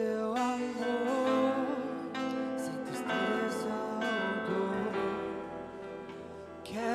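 Live gospel worship song: voices singing a slow melody over guitar accompaniment, dipping briefly near the end before the singing picks up again.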